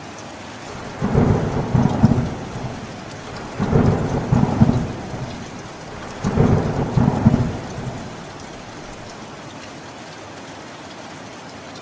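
Steady rain with three rolls of thunder, each a deep rumble lasting about a second and a half, coming one after another in the first eight seconds. The rain carries on alone after the last one.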